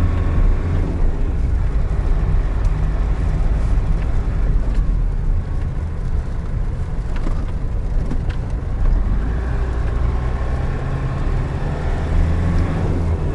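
GAZelle Next van driving, heard from inside the cab: a steady low engine drone with road and wind noise and a few light knocks. The engine note eases off in the middle and comes back stronger near the end.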